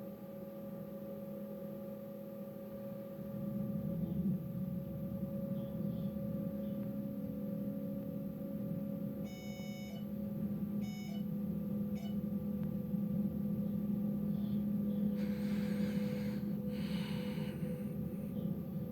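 Steady electrical hum of a train, made of several held tones. About nine seconds in there is a pitched beep, followed by two shorter beeps about a second apart. Two bursts of hiss come near the end.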